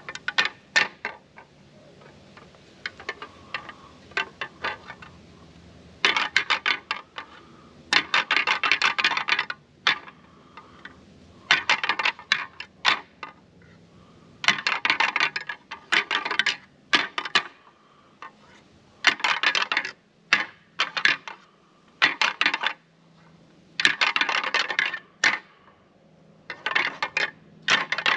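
Hard objects clacking and grinding together in short bursts of rapid clicks, about every two to three seconds, typical of a hunter's rattling antlers being clashed to imitate two bucks fighting.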